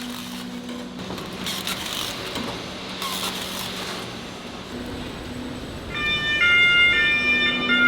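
Factory machinery humming steadily with scraping and clattering; about six seconds in, a loud electronic warning melody of bright chiming notes starts up.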